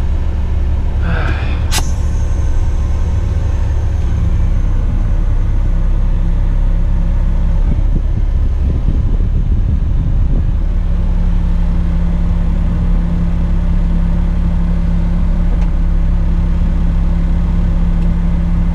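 Tipper truck's diesel engine running steadily while the tipper body is raised to dump a load of concrete blocks. A short hiss and a sharp click come about two seconds in, and the low rumble shifts for a couple of seconds near the middle.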